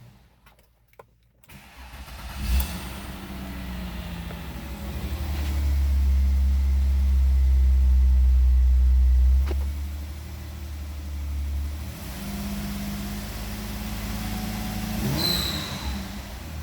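2003 Ford Escape's 3.0 L V6 engine starting about two seconds in, then idling. It is revved up and held for about four seconds, drops back suddenly to idle, and is given a couple of lighter revs near the end.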